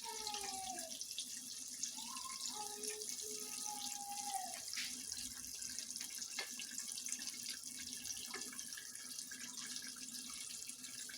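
Fish frying in hot oil: a steady sizzle with scattered pops and crackles.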